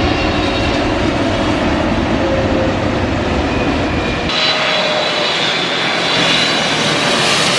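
Jet airliner's engines running loud: a steady rush with a faint whine that slowly falls in pitch. About four seconds in, the deep rumble drops away suddenly and the high whine gets stronger.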